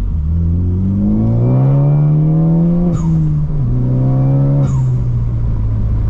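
Turbocharged four-cylinder Ford Focus ST engine under hard acceleration. The revs climb, break sharply at an upshift about three seconds in, climb again through the next gear, shift once more, then settle into a steady drone.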